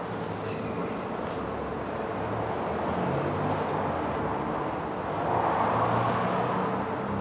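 Microwave oven running at full power with a can of deodorant inside, its steady low hum under a rushing background noise that swells briefly a little past the middle.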